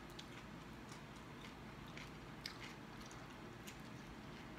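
A person biting and chewing slices of raw Italian squash: faint chewing with scattered short clicks.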